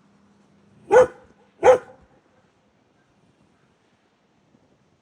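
A dog barking twice, two short loud barks about two thirds of a second apart, about a second in.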